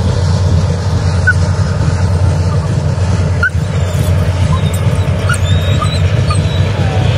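Steady low rumble of a CN freight train rolling past, with a few faint, short, high squeaks.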